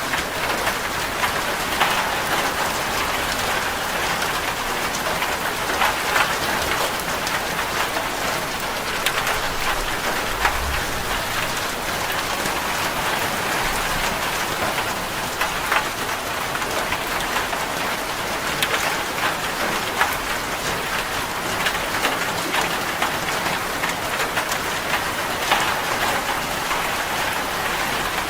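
Steady heavy rain drumming on a corrugated zinc roof: a dense, even patter of countless drops, with sharper individual drop taps scattered through it.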